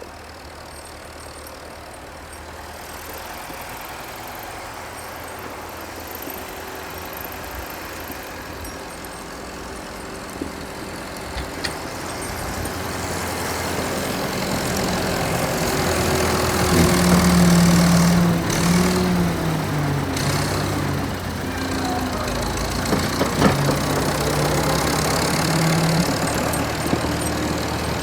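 Engine of a vintage Volvo tractor running, growing steadily louder. From about halfway its pitch steps up and down as the revs change, with a few short knocks.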